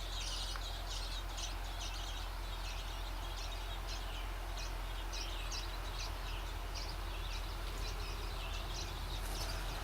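Small birds chirping: short high chirps repeating about twice a second, over a steady low hum.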